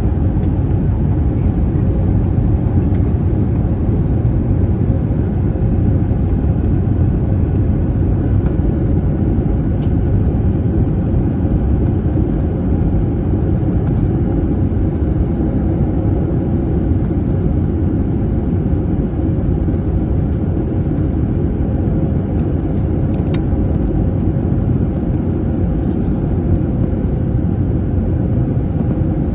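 Steady low rumble of a passenger airliner's engines and airflow heard inside the cabin, with a faint steady hum above it.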